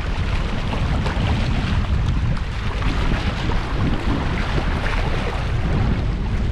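Strong wind buffeting the microphone in rough weather, with a steady rushing hiss behind it.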